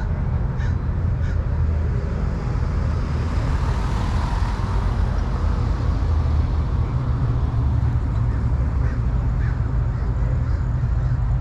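A few short crow-like caws over a steady low rumble.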